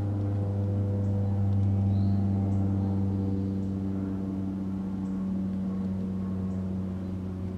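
A steady low hum with a stack of even overtones, unchanging in pitch, with a few faint brief ticks above it.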